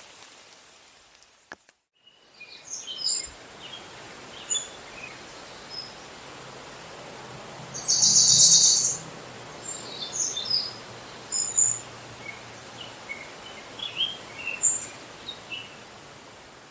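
Small wild birds calling: many short, high chirps scattered through, with one louder, longer buzzy call about eight seconds in, over a steady hiss. The first two seconds hold only the hiss, which cuts out briefly before the calls begin.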